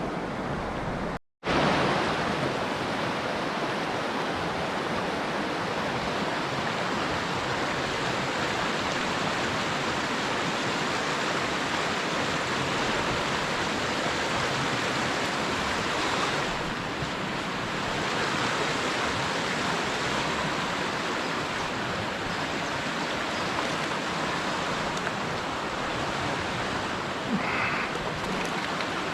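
Steady rush of a small river's flowing water, broken by a brief cut to silence about a second in.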